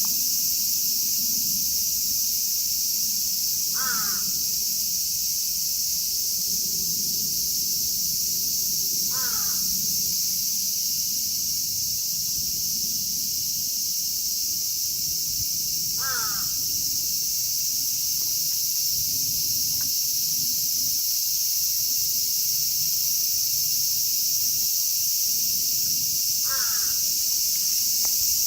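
A steady, dense chorus of Japanese cicadas, with a bird calling four times, about 4, 9, 16 and 27 seconds in.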